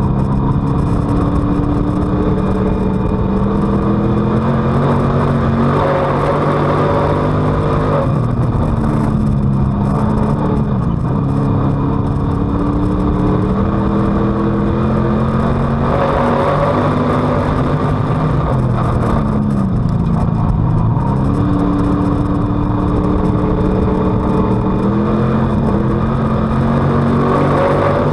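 Street stock race car's V8 engine heard from on board at racing speed: it revs up in pitch, then drops sharply as the throttle is lifted, and climbs again, about every five seconds.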